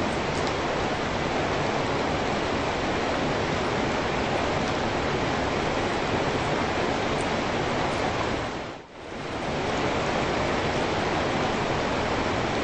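Steady rain, an even hiss. About nine seconds in it briefly fades down and swells back up.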